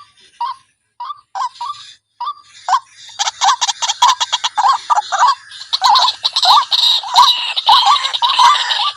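White-breasted waterhen (wak-wak) calling as a lure: a few separate short calls at first, then from about three seconds in a fast, dense run of repeated calls, several a second.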